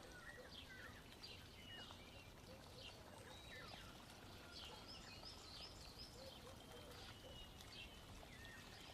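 Faint chirping of small birds, many short quick calls overlapping, over a low steady hiss.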